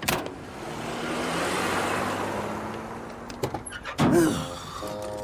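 Cartoon car sound effect of a car pulling away: a click, then a low engine hum under a whoosh that swells and fades over a few seconds. A short sliding tone follows near the end.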